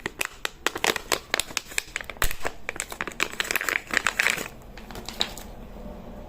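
Plastic packaging crinkling and rustling as it is handled, with quick irregular clicks, dying down about four and a half seconds in to a quieter steady background.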